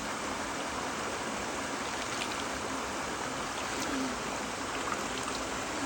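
Creek water running steadily, a continuous rushing wash of flowing water.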